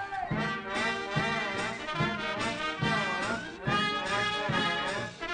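Orchestral cartoon score led by brass, trumpets and trombone, with an even oom-pah beat of about two accents a second.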